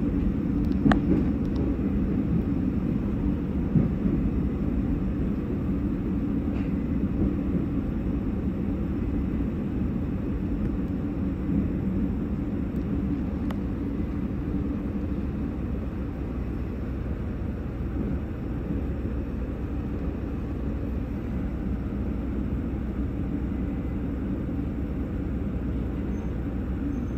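Steady low rumble of a train heard from inside the passenger car, with a few faint clicks early on, growing a little quieter about halfway through as the train draws alongside a station platform.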